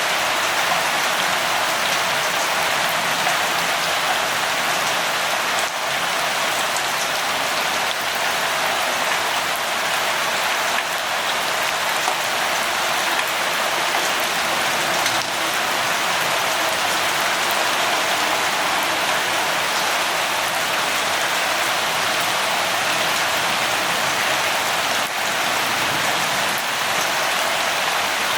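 Light rain falling steadily: an even hiss of rain on surfaces, with scattered faint drop ticks.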